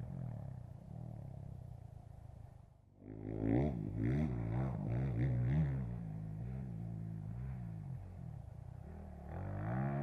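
Motocross bike engine revving, its pitch climbing and falling again and again through throttle and gear changes. The sound drops away briefly about three seconds in, then comes back louder.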